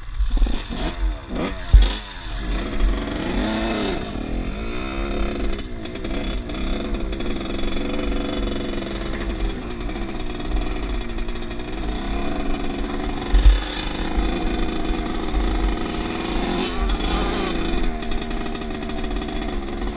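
Off-road motorcycle engine revving up and down as it is ridden, with two sharp knocks, one about two seconds in and one a little past the middle.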